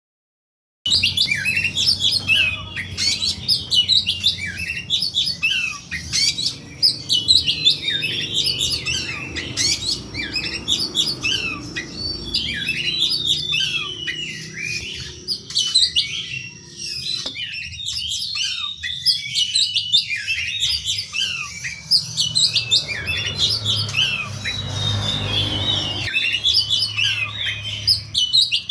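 Oriental magpie-robin (kacer) in fighting mode, singing a fast, unbroken stream of sharp chirps and harsh notes. This is the aggressive song used as a lure to provoke other magpie-robins into answering. It starts about a second in.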